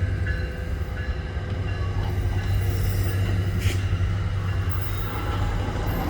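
EXO commuter train with an ALP45DP locomotive running through the station: a steady low rumble of the locomotive and wheels on the rails, with a brief sharp high sound about two-thirds of the way in.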